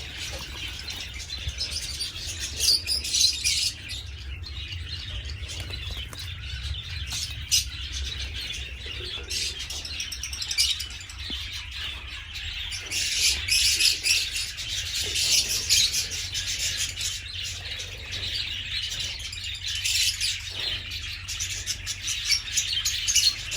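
Many small cage birds chirping together in a dense, continuous twittering chorus.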